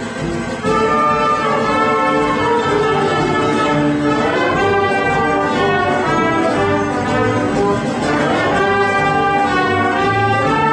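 Live band music led by brass, with trumpets and trombones playing held notes and upward-sweeping runs about four seconds in and again near nine seconds.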